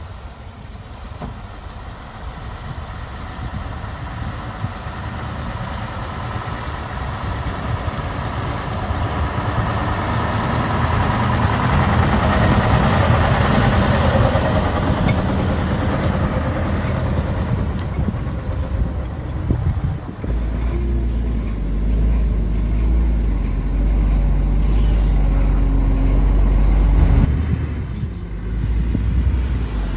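Heavy diesel engine of earthmoving machinery, growing louder over the first dozen seconds as it comes close. About two-thirds of the way through it settles into a deep, steady drone, which falls away near the end.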